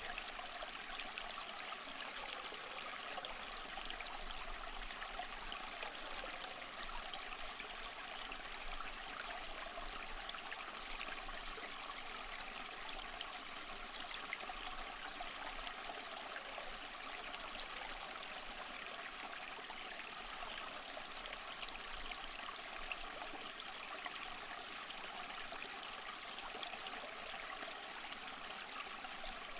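A small stream running steadily over stones, a continuous trickling and babbling of water with no change.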